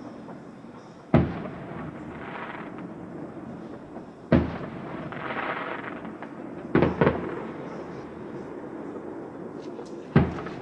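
Fireworks shells bursting with loud sharp bangs, one about a second in, one just past four seconds, a quick double bang near seven seconds and another near the end, with softer rushing noise between the bursts.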